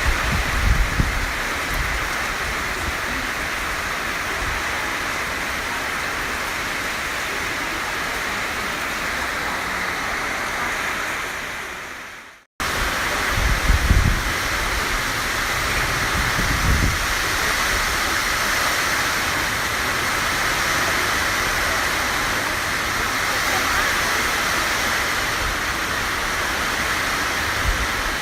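Heavy storm rain pouring steadily, with gusts of wind buffeting the microphone near the start and again a little after halfway; the storm is tropical storm Pabuk. The sound fades out and cuts back in about halfway through.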